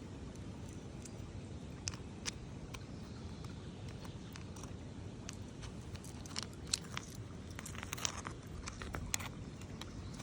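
Stones and gravel clicking and crunching over a steady rush of running water, with the clicks coming thickest around six to nine seconds in.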